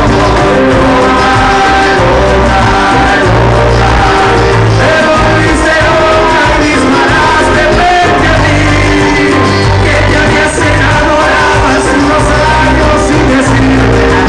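Loud live cuarteto band music with a steady, repeating bass line and melodic instruments, with some singing over it.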